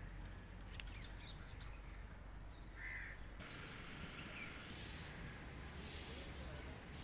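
A bird gives one short caw about three seconds in, over a low outdoor rumble. In the second half, a hissing noise swells and fades about once a second.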